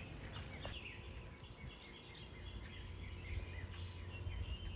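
Several small birds chirping and calling in quick short notes, over a steady low rumble.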